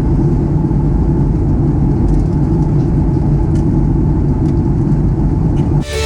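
Steady, loud low rumble of a Boeing 737's engines and airflow heard inside the passenger cabin; it cuts off sharply near the end.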